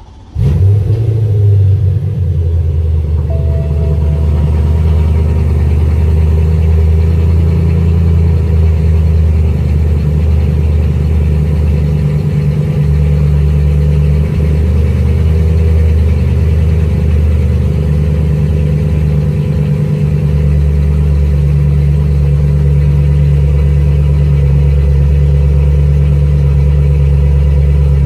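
BMW E92 M3's 4.0-litre S65 V8 cold-starting through an iPE F1 exhaust: it fires about half a second in with a loud flare, then settles into a steady fast cold idle whose note shifts slightly twice. Heard from inside the cabin.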